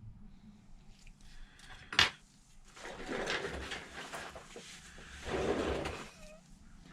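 A sharp click about two seconds in, then a few seconds of scraping and rustling: the phone and tools being handled on the workbench.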